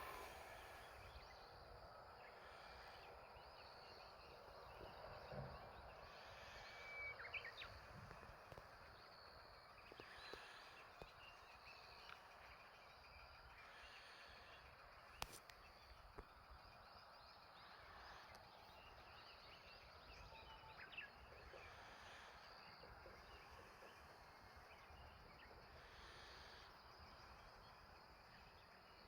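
Wild birds calling faintly: scattered short chirps and calls recurring every few seconds over a steady outdoor hiss, with one sharp click about halfway through.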